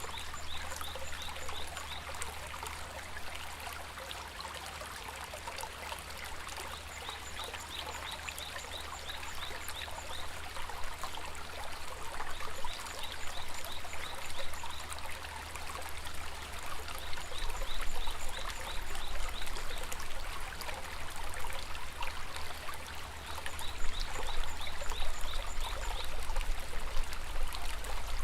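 Shallow river water babbling and splashing steadily over stones. A high, rapid trill of short pulses recurs several times, each lasting a second or two.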